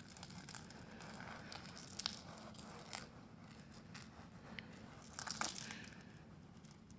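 Faint rustling and crinkling with a few light clicks: one about two seconds in, one about three seconds in, and a short cluster a little past five seconds.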